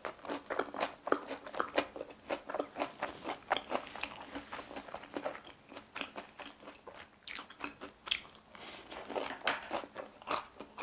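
A person biting and chewing a fried mozzarella corn dog coated in crisp potato cubes: many quick, irregular crunches that ease for a moment past the middle.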